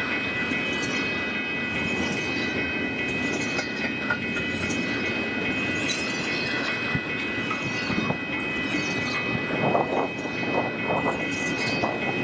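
Union Pacific intermodal freight train's cars rolling past: a steady rumble of wheels on rail with a steady high-pitched ringing tone and scattered clicks of wheels over the rail joints, which grow busier near the end.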